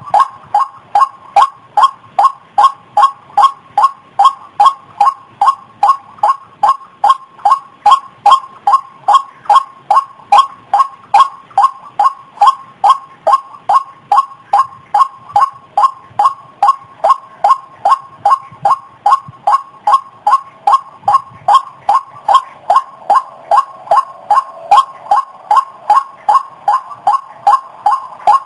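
White-breasted waterhen (ruak-ruak) calling: a loud, monotonous series of short 'ruak' notes repeated evenly at about two and a half a second.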